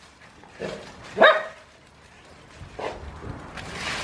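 Dog barking: one loud bark about a second in, with fainter, shorter ones before and after it. A rustling noise builds near the end.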